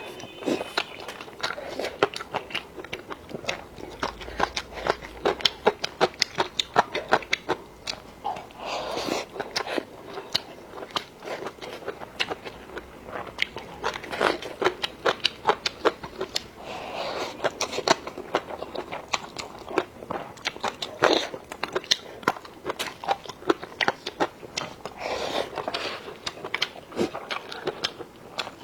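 A person chewing and crunching food close to the microphone: a steady stream of quick, sharp mouth clicks, broken every several seconds by a softer, longer sound.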